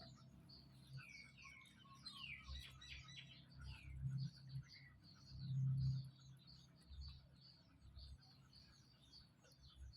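Rapid high-pitched chirping of small birds: many short, quick falling chirps overlapping throughout. A low rumble swells briefly twice, about four and six seconds in.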